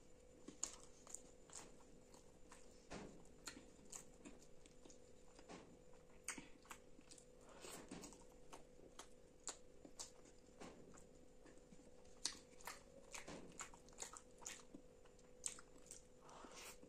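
Quiet, close-miked chewing of curry-soaked roti: wet mouth smacks and clicks at an irregular pace.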